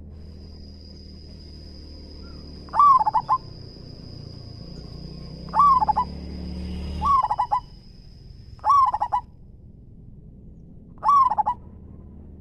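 Zebra dove (perkutut) cooing: five short, rolling coo phrases, each a quick run of notes, spaced about two to three seconds apart.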